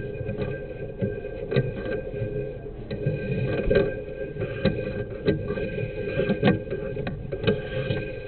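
Sewer inspection camera rig at work: irregular knocks and clicks several times a second over a steady mechanical hum, as the camera and its push cable work through the sewer line.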